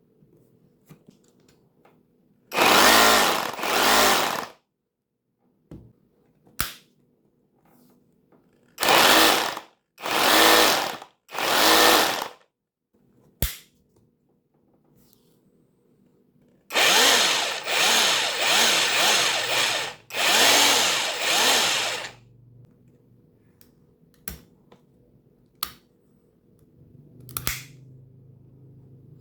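NANWEI cordless rotary hammer drill run in short bursts of about a second each: two, then three, then a longer run of about five seconds that dips and picks up several times. Small clicks come between the runs.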